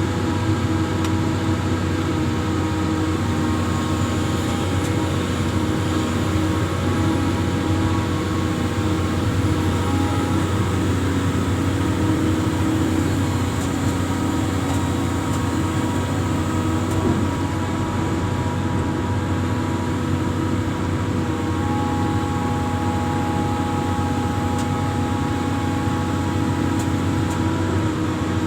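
Amphibious excavator's engine running steadily, a constant low hum with a few held tones above it and no change in level.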